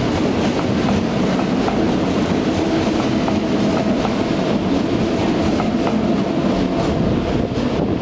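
Red DB S-Bahn electric multiple unit pulling out along the platform. The wheels click over the rail joints in a steady clickety-clack above a continuous rumble, with a faint steady whine in the middle.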